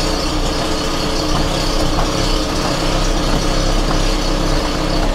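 Volvo 480's 2.0-litre four-cylinder petrol engine running steadily at idle, with a very big exhaust leak at the front that the owner fears may be at the manifold.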